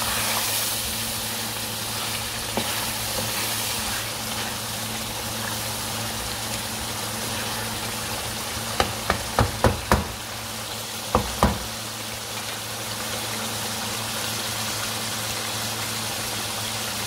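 Chicken in masala frying in a pan with a steady sizzle, stirred with a spatula. About nine seconds in there is a quick run of five knocks, then two more a second later, as the spatula strikes the pan.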